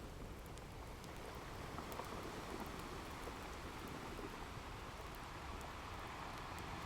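Steady wash of ocean surf mixed with the faint, scattered crackle of a wood fire.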